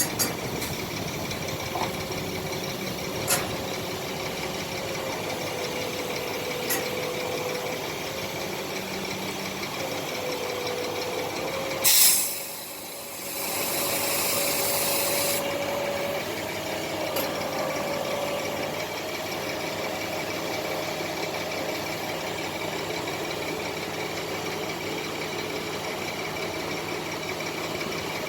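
Heavy truck engine idling steadily. About twelve seconds in there is a loud short burst, then a few seconds of high hiss, like air being let out.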